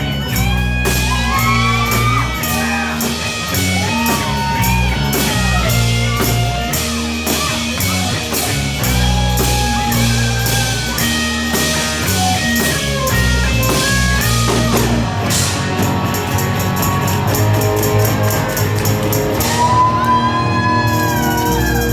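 Live rock band playing: guitar lines with bending notes over a steady drum-kit beat and bass.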